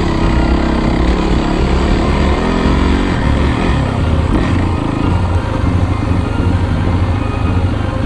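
Dirt bike engine running, its pitch shifting up and down with the throttle.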